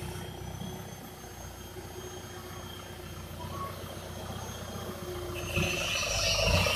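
Toyota 15B-T four-cylinder turbo-diesel in a modified FJ40 Land Cruiser, running at low speed as the vehicle creeps forward. It is a steady low rumble that gets louder with more hiss about five and a half seconds in.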